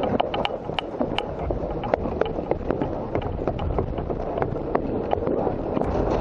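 Sharp, irregular clicks and pops, several a second, over a low rumble. This is typical of airsoft shots and BB impacts mixed with a player's movement.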